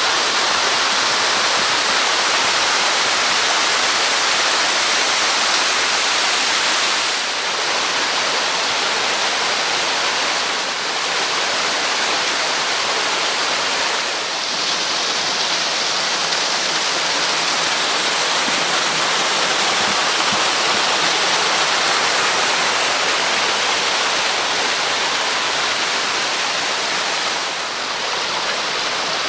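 Water pouring down a waterfall about 6 m high: a steady, dense rush with a few brief slight dips in level.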